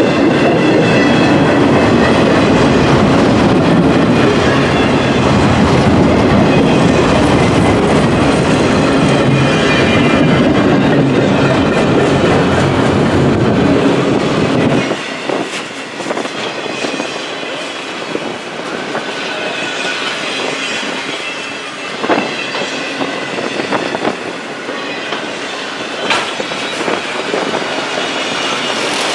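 Freight cars of a long train rolling past: a loud rumble with wheels clattering over the rails. About halfway through, the low rumble drops away suddenly, leaving a thinner rolling sound with occasional sharp wheel clunks.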